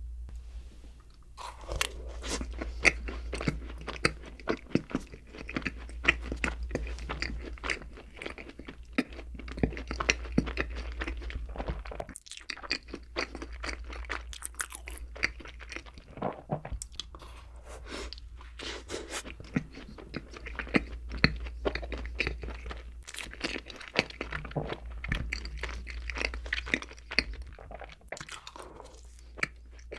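Close-miked mouth sounds of someone eating doughnuts: chewing and crunching with many sharp wet clicks, pausing briefly a couple of times. A steady low hum runs underneath.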